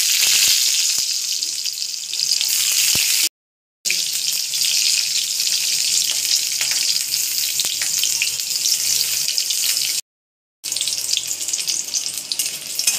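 Chopped garlic and ginger sizzling in hot oil in a wok: a steady, crackling hiss. It drops out twice into brief silence, about three seconds in and again about ten seconds in.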